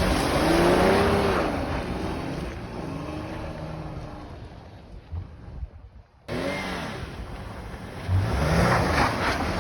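Car engine revving as it drives through snow, its pitch rising and falling, then fading away. The sound cuts back in abruptly a little past the middle, and the engine revs up again near the end.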